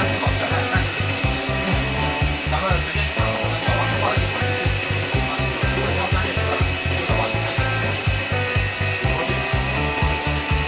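Small cue-repair lathe motor whirring steadily, over background music with a fast, steady bass beat.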